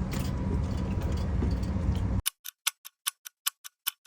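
Steady low rumble of the lorry's idling engine, cut off suddenly about halfway through. A clock-ticking sound effect follows over dead silence, about five to six ticks a second, marking the time passing during a break.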